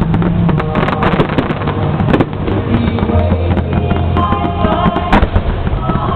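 Fireworks bursting and crackling in irregular quick succession over music with sustained tones, one sharper crack about five seconds in.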